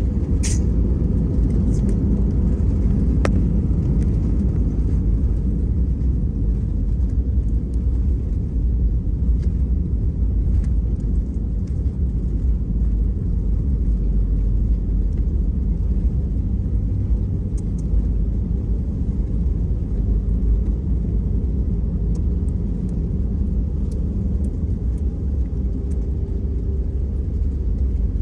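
Steady low rumble of an Airbus A320's engines and airflow heard inside the passenger cabin, with a few faint clicks.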